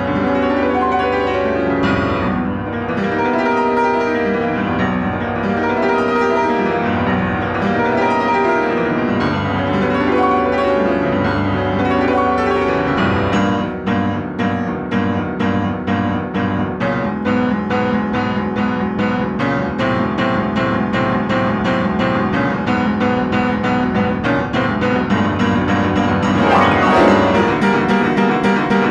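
Piano playing a dense passage of many notes. About halfway through it turns to rapid, evenly repeated struck notes and chords.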